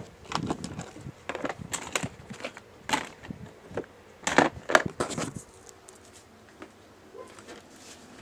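Ice cubes being crunched: a run of irregular sharp crunches for about five seconds, then much quieter.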